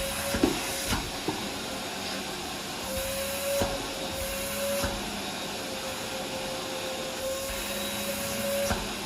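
Household vacuum cleaner running steadily, its motor tone wavering and dropping out at times, with scattered sharp clicks and knocks as it picks up debris or bumps the surface.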